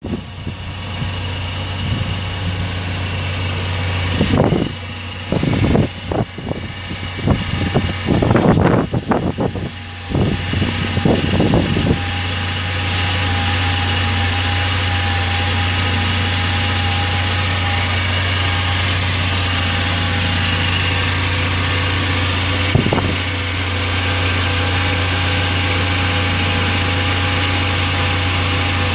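Toyota Hilux 2.7-litre four-cylinder petrol engine (3RZ-FE) idling steadily. Irregular louder noise comes and goes over the first dozen seconds.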